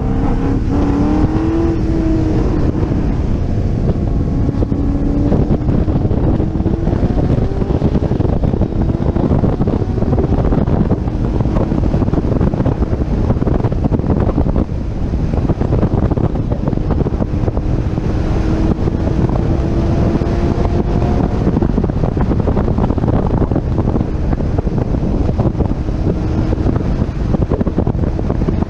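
Chevrolet Corvette C6 Z06's 7.0-litre LS7 V8 accelerating on a race track, its pitch climbing in long pulls with a brief lift about halfway through. Heavy wind rumble on the exterior camera's microphone runs underneath.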